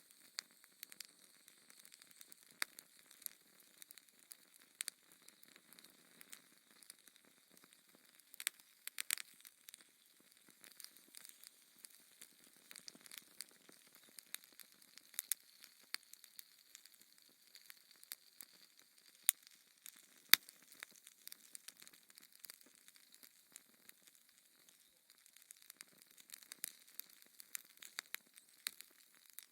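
Fire in a fireplace crackling: irregular sharp pops and ticks over a faint hiss, with two louder pops about two-thirds of the way through.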